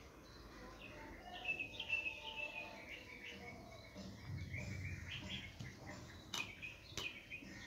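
Small birds chirping in short high twitters, with two sharp clicks near the end.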